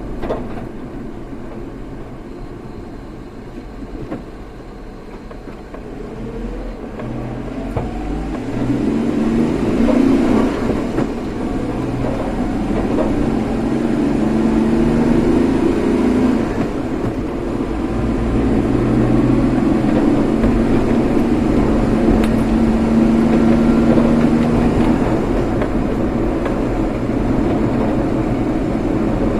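A motor vehicle on the move: engine and road noise, with the engine pitch rising as it picks up speed over the first ten seconds or so, then running steadily at speed.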